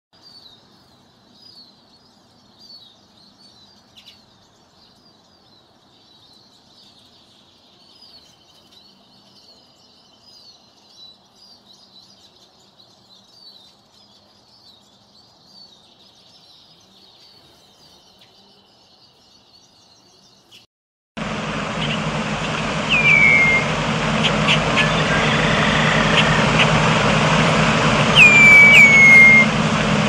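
Small birds chirping faintly in quick, short high notes. About two-thirds of the way through, a much louder recording cuts in, with a steady low rumble under several sharp whistled calls that drop in pitch.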